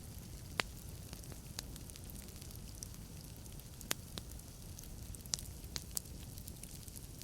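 Wood fire crackling in a fireplace: burning logs give irregular sharp pops over a steady low rumble of flames, the loudest pops about half a second and four seconds in.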